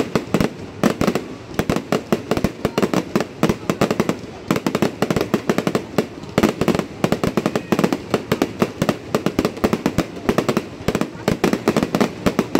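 Fireworks going off in a rapid, continuous string of sharp bangs and pops, many each second, as low fireworks send streams of sparks up from the ground.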